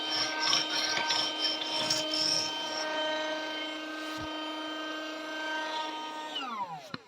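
Mini Henry desktop vacuum cleaner's small motor running with a steady whine, with scratchy rubbing over the first few seconds. Near the end it is switched off and the whine falls in pitch as the motor winds down.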